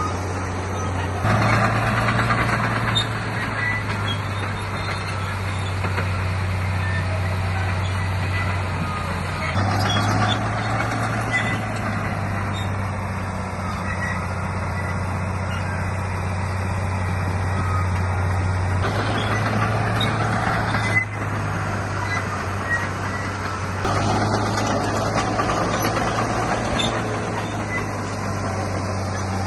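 Heavy earthmoving machinery's diesel engine running steadily. It is pushed harder several times, its note stepping up with a rise in clattering noise at about one second in, about ten seconds in, and again twice near the end.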